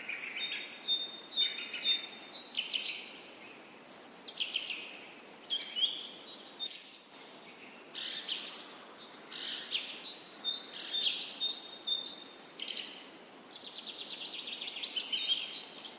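Songbirds chirping and singing, many short calls and whistled notes overlapping, with a fast trill in the last couple of seconds.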